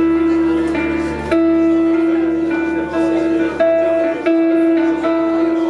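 Live band music: an instrumental passage of held notes that change about once a second, with no singing.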